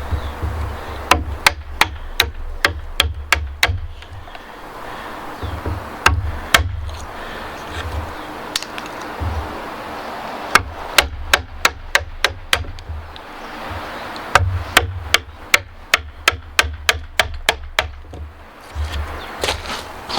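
Mallet striking a wood chisel in several runs of sharp blows, about three a second, with short pauses between runs, as joint wood is chopped out.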